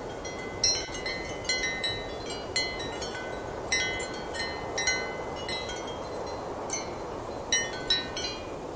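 Ceramic wind chimes struck irregularly by the wind, a dozen or so clinking notes that ring briefly, over a steady rush of strong wind.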